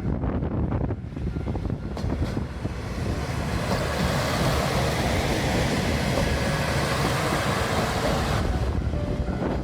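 A train passing close by: a loud rushing rumble that builds over a few seconds and drops away near the end, with wind buffeting the microphone.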